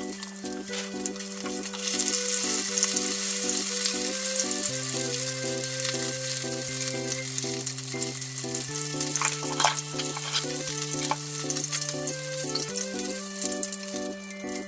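Coated pieces of food shallow-frying in oil in a frying pan: a steady sizzle that gets louder about two seconds in, with a few sharp clicks of tongs against the pan near the end. Light background music with a repeating pattern of notes plays underneath.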